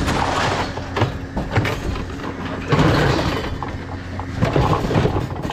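Scrap being handled, with knocks and scraping clatter, over a steady low engine hum.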